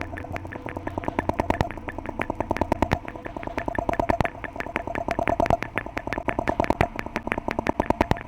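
A rapid, uneven series of sharp clicks and taps, several a second, over a faint steady hum.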